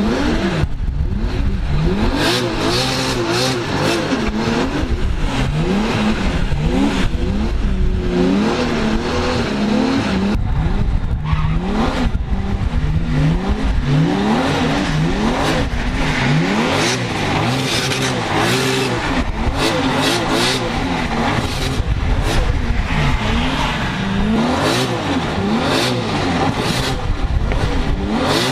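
Toyota Chaser drift car's engine revving up and down over and over while drifting, its pitch climbing and dropping every second or two.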